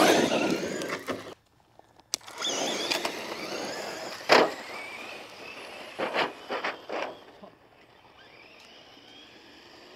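Traxxas VXL RC car running over rough ground: the brushless motor whines over steady tyre and gravel noise, with several sharp knocks as it bounces and tumbles. The sound fades to a faint hum near the end.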